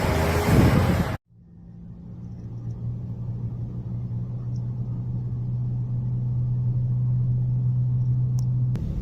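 Loud road noise cut off abruptly about a second in, then a vehicle's steady low drone that fades in and slowly grows louder.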